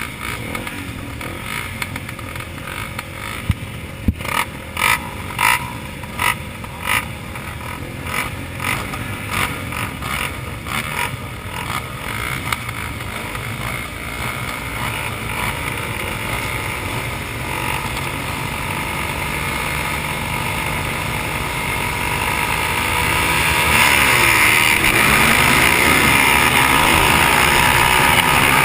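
Dirt bike engines running, with a run of short, evenly spaced bursts in the first half, then growing louder and holding at high revs for the last few seconds.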